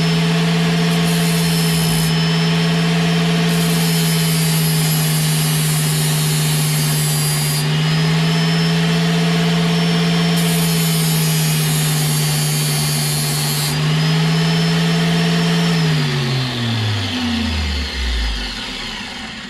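Electric power tool motor running at a steady speed for about sixteen seconds, with a hiss above it that changes several times, then winding down in pitch over about three seconds near the end.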